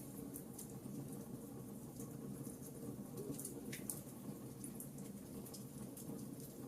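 Wood fire burning in a fireplace: a steady low rush of flames with scattered small crackles and pops, one sharper crack about four seconds in.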